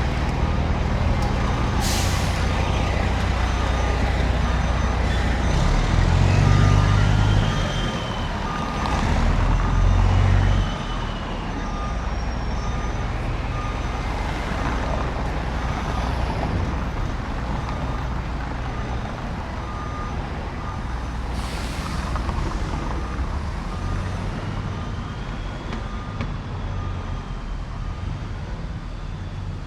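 A heavy vehicle's engine running and revving close by in city traffic, rising twice in the first ten seconds. A steady run of short beeps plays over it, with two sharp air hisses, typical of air brakes, about two seconds in and again about twenty seconds in.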